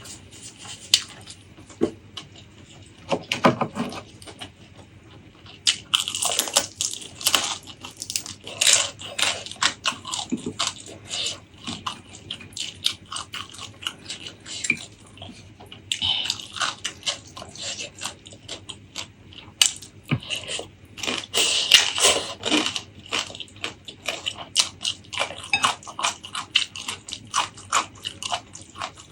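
Close-miked eating sounds: wet chewing and mouth smacks with sharp clicks, coming in clusters with short pauses between.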